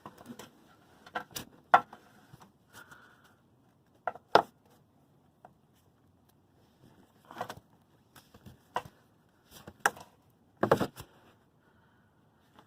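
Metal hand tools clinking and knocking, about nine separate sharp knocks at uneven intervals, as a clamp-type oil filter wrench is handled and set on a car's spin-on oil filter.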